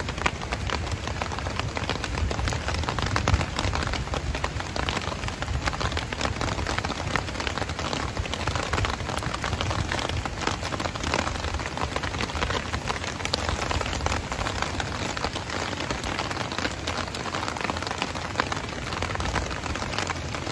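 Steady rain pattering on wet ground, a dense even patter with a low rumble underneath.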